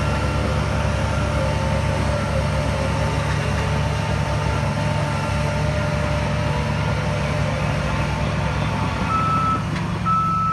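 Heavy diesel engine of earthmoving machinery running steadily under load. A high-pitched reversing alarm sounds briefly a few times, clearest near the end.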